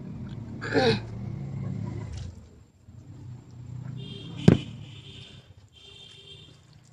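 Close-up eating sounds: mouth noises and chewing, with a loud falling slurp-like sound near the start and one sharp click about four and a half seconds in.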